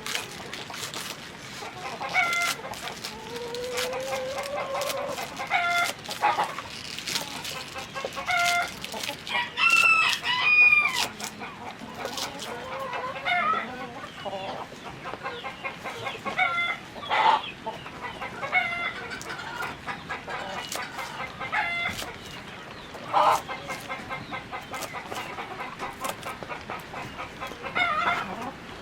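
Chickens clucking with short calls repeating every second or two, with a longer rooster crow partway through, over scattered sharp clicks.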